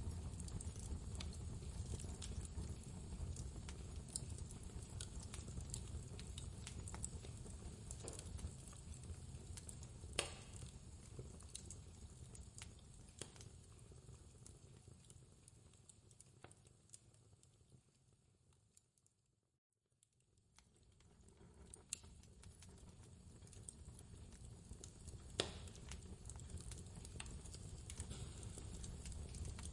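Wood fire crackling in a fireplace, with scattered sharp pops over a low steady rumble of blizzard wind. The whole sound fades away to near silence about twenty seconds in, then fades back up.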